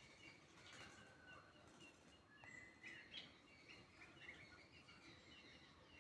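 Faint chirping of small birds: many short, high calls overlapping throughout, over a low, steady background hiss.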